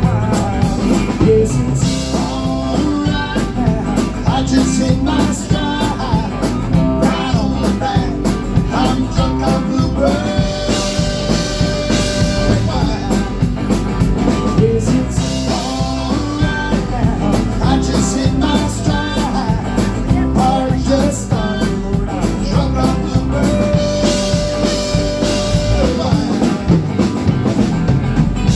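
Live blues-rock band playing an instrumental break, with drums and bass under a lead line that holds a long note twice.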